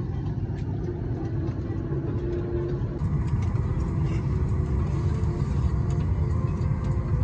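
Steady low mechanical rumble with a faint wavering hum and scattered light clicks. The sound changes character about three seconds in.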